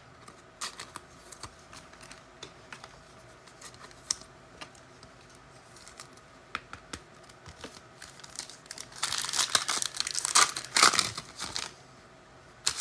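Trading cards being handled with scattered light clicks, then a couple of seconds of crinkling and tearing near the end as a foil card pack is torn open.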